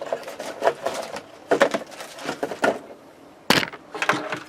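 Clicks and knocks of cables and small plastic connectors being handled, with the sharpest knock about three and a half seconds in.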